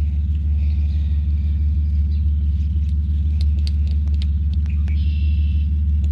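Steady low hum of a running engine or motor, unchanging in pitch and level, with a few faint clicks and a brief faint high whine about five seconds in.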